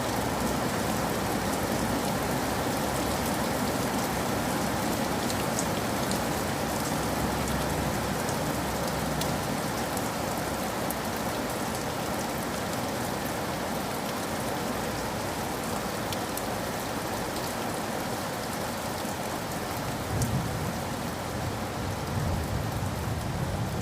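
Steady rain falling on a surface, with scattered sharp drop taps. A low rumble comes in near the end.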